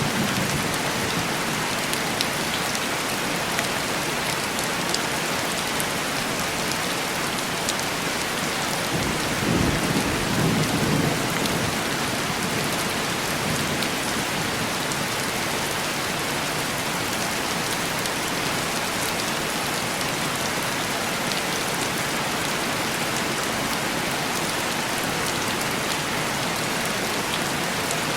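Heavy rain pattering steadily on window glass, with a low roll of thunder rumbling up about nine seconds in and fading a few seconds later.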